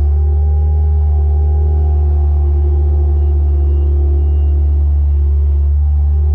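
Bobcat skid-steer loader's diesel engine running at a steady speed: a loud, deep, constant drone with fainter wavering tones above it.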